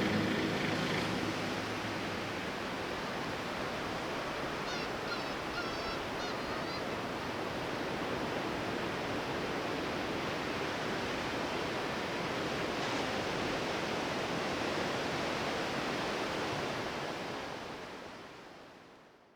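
Sea surf washing in as a steady rushing noise, with a few short high bird calls about five to seven seconds in. It fades out near the end.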